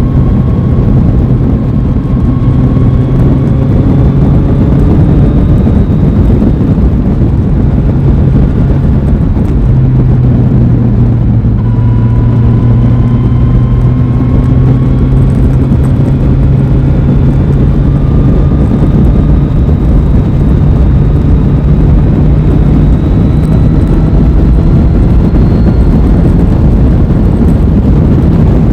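Aprilia Tuono 660's parallel-twin engine running under way, its pitch slowly climbing as the bike pulls, with a brief drop in the note about ten seconds in, over heavy wind and road noise.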